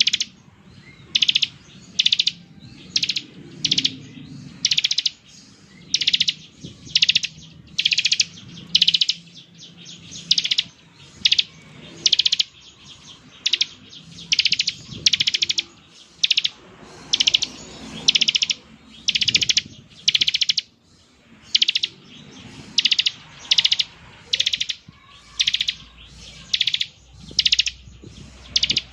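Bar-winged prinia (ciblek) giving its 'ngebren' call: short, high, rapid buzzing trills repeated over and over, roughly one to two a second.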